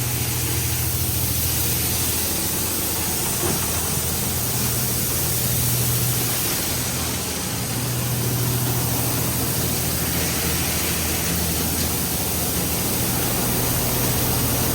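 Oasis Typhoon touchless in-bay car wash applying soap. The spray jets hiss steadily over the low hum of the wash's pump, which dips briefly about halfway through.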